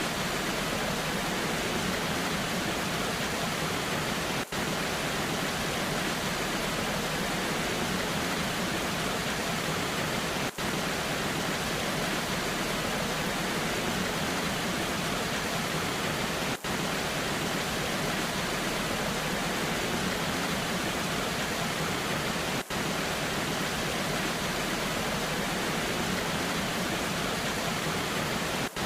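Waterfall water rushing in a steady, even hiss, broken by a very brief dip in level about every six seconds.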